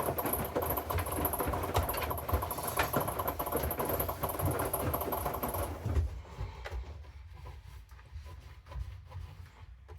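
Hoover washing machine mid-wash, its motor turning the drum, which stops about six seconds in, leaving a much quieter sound.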